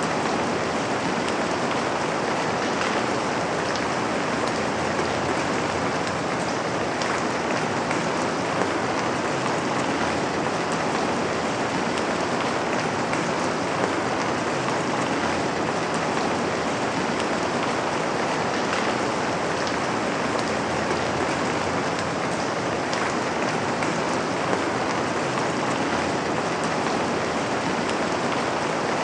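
Steady rain falling on a window, with an occasional slightly louder drop.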